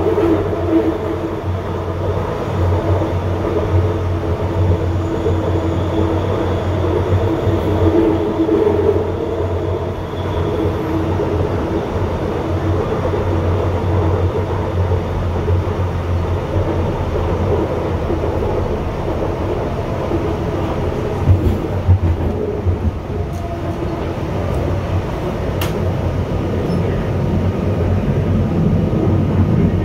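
Cabin sound of a UTDC ICTS Mark I rapid-transit train running on elevated track: a steady rumble with a humming tone from its linear induction motors, and a couple of knocks about two-thirds of the way through. Near the end it pulls into a station.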